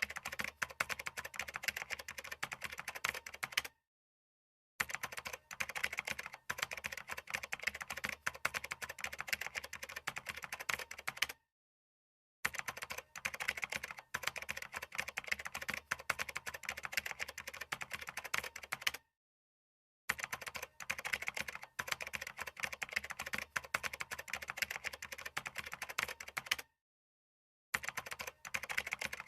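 Computer keyboard typing: a fast, dense run of key clicks, stopping dead for about a second four times, roughly every seven to eight seconds.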